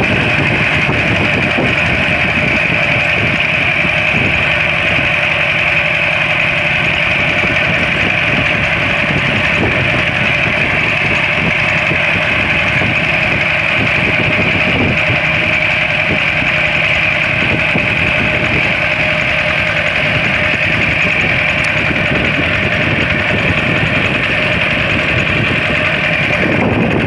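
Walk-behind tractor's single-cylinder diesel engine running steadily with a rapid, even chugging.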